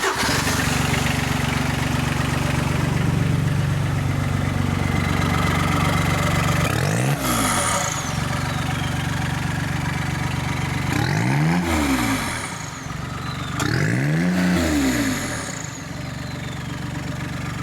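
Custom Kawasaki MULE's turbocharged Daihatsu diesel engine idling, then blipped three times. Each rev rises and falls back to idle, and a high whistle from the turbo spools down after each one.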